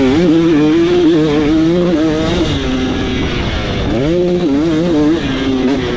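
2026 KTM 300SX single-cylinder two-stroke engine being ridden hard. The revs hold high and waver, fall off, then climb again about four seconds in.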